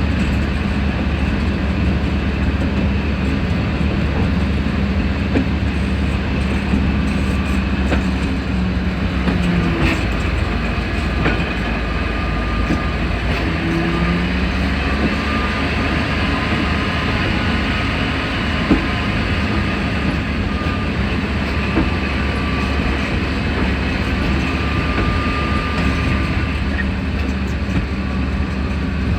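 Sentinel 0-4-0 diesel shunter's Rolls-Royce C Range eight-cylinder supercharged diesel engine running steadily, a continuous low drone with wheels on rail.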